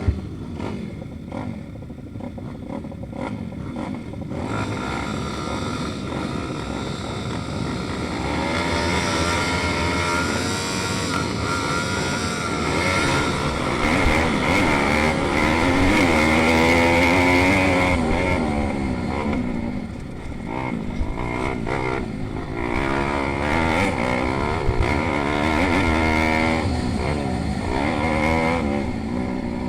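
Several pit bike engines racing, revving up and down through their gears as the bikes pass, growing louder toward the middle, easing off briefly and then swelling again near the end.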